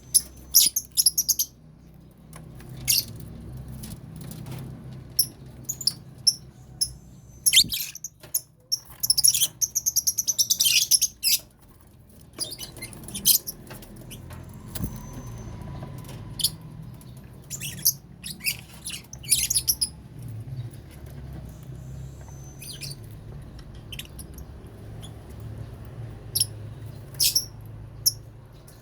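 Lovebirds in a colony cage giving short, sharp high-pitched chirps scattered throughout, with a dense run of calls about nine to eleven seconds in, over a low steady hum.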